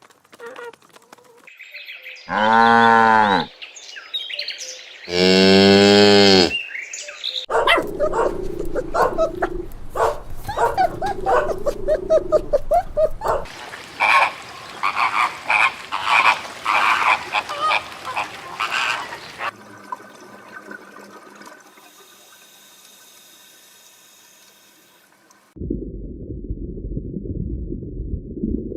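A cow moos twice, two long loud calls a couple of seconds apart. After that comes a long run of rapid, repeated animal calls, and near the end a low rumbling noise sets in.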